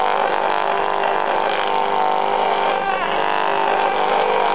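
RF radiation meter's audio output giving a steady, harsh buzz as it picks up microwave leakage from a running microwave oven.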